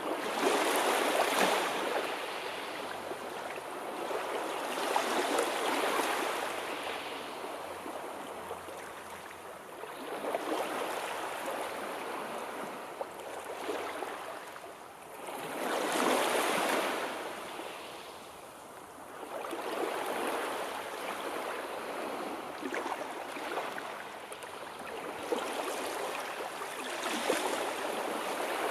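Sea surf: waves breaking and washing back, the noise swelling and ebbing about six times, every four to six seconds, loudest about a second in and again around the middle.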